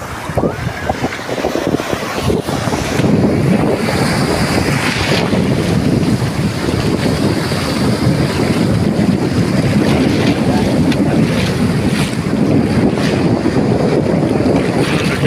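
Sea surf washing on a beach, with wind buffeting the microphone.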